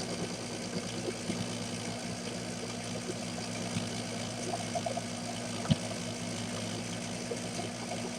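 Small metal lathe running under leadscrew power feed, its motor and gear train humming steadily. There is a single sharp click about five and a half seconds in.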